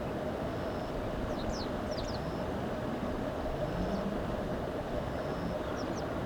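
Japanese wagtail giving short, sharp high call notes, a quick cluster about a second and a half in and another pair near the end, over a steady low rumbling background.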